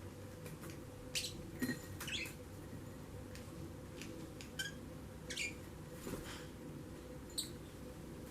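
Lovebirds giving short high chirps, several single calls spread irregularly, some sliding down in pitch.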